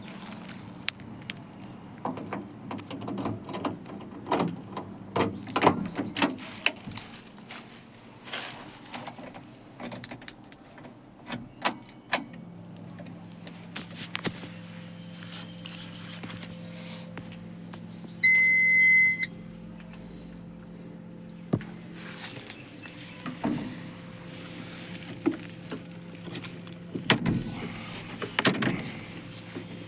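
Scattered clicks and knocks of handling, with a steady low hum setting in partway through and a single high electronic beep lasting about a second.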